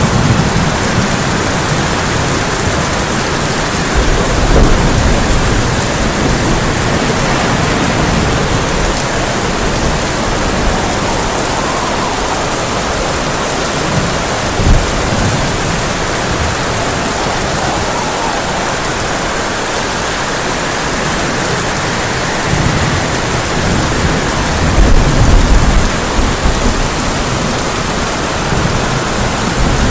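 Heavy rain drumming steadily on a tin roof, with low rumbles of thunder: one about four seconds in, a short one near fifteen seconds, and a longer rolling one around twenty-five seconds.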